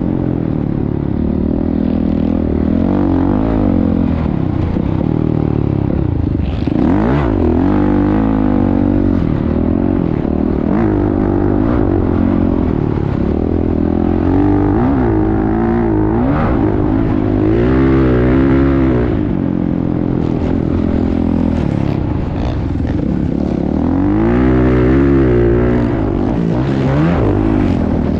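Motocross bike engine revving hard and easing off again and again, its pitch climbing and dropping every couple of seconds as the throttle is worked at speed, with a brief noisy clatter about seven seconds in.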